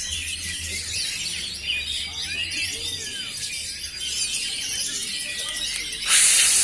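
Many caged oriental magpie-robins singing at once in a dense, overlapping chorus of whistles and chirps. About six seconds in, a loud hissing burst lasts about half a second.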